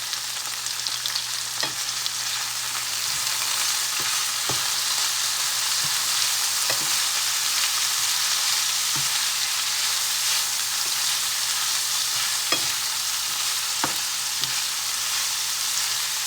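Food sizzling steadily as it fries in a hot pan, with scattered clicks of a utensil stirring against the pan. The sizzle grows a little louder about three seconds in.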